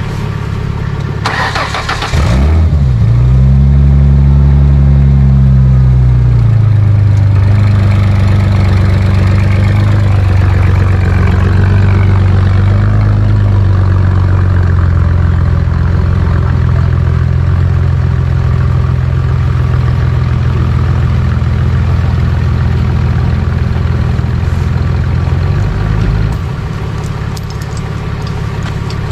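A vehicle engine is cranked by its starter and catches about two seconds in. It runs at raised revs for a few seconds, then settles to a steady idle, which drops lower near the end.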